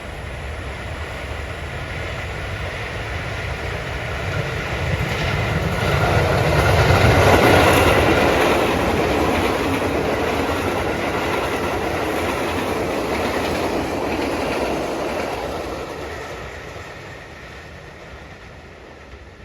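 A train passing close by, its wheels clattering over the rail joints. It grows louder to a peak about a third of the way in, holds, then fades as it moves off.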